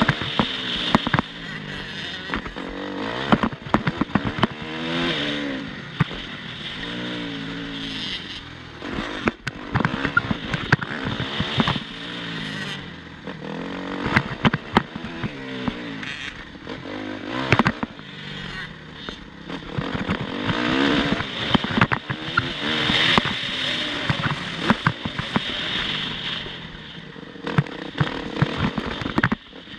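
Motocross bike engine revving hard and dropping back over and over as it works through the gears, with many sharp clicks and knocks mixed in.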